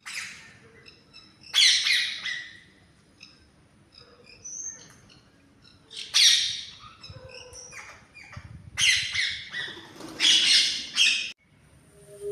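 Parrots giving loud, harsh squawks, about six of them spaced irregularly, with softer short chirps in between.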